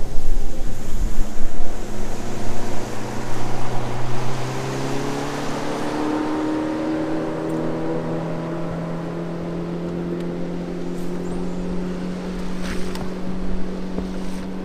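Boat's outboard motor running underway, with wind buffeting the microphone for the first few seconds. The engine note rises about five seconds in, then holds steady.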